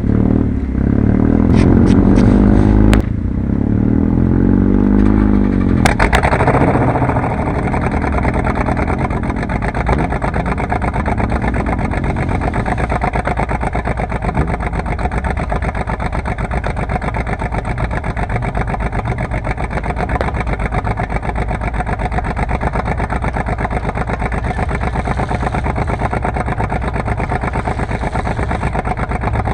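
Car engine revved up and down several times over the first six seconds, with a few sharp clicks among the revs, then settling into a steady idle.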